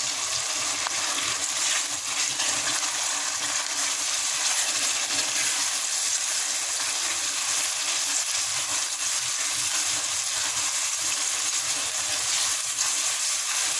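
Chopped tomatoes and onions frying in oil in a karahi, a steady sizzling hiss, while a silicone spatula stirs them through the pan.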